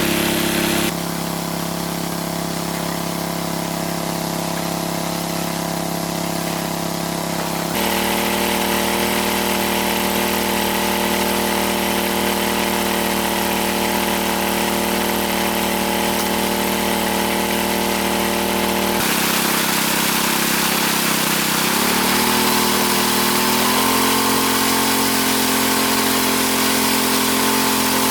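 A motor running steadily with a hum made of several held pitches. The pitch pattern shifts abruptly a few times, then rises smoothly about three quarters of the way through and holds at the higher pitch.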